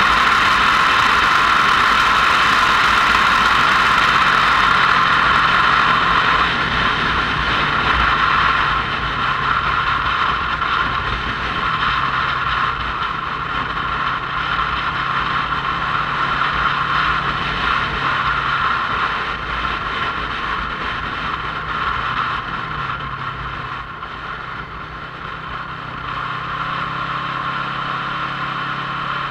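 Motorcycle engine running while riding, with steady road and wind noise. The engine note shifts in pitch now and then, and the whole sound is loudest for the first six seconds, then eases a little.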